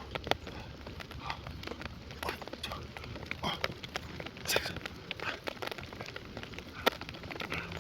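Light rain: scattered raindrops ticking irregularly on a surface near the microphone, over a low steady rumble.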